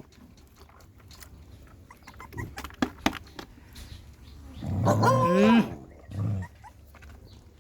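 A dog vocalizes: one pitched, bending growl-whine about five seconds in, then a shorter one just after. A few faint clicks come before it.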